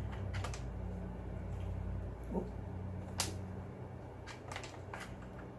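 Scattered light clicks and knocks of a screwdriver and plastic housing parts as screws are driven into a leaf blower's plastic shell, over a steady low hum.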